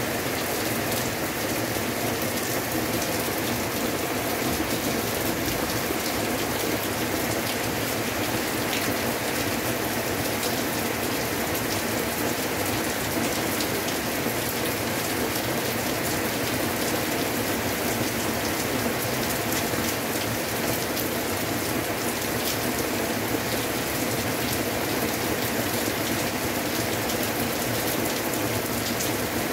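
Heavy rain pouring down steadily in a downpour, with water streaming down close by.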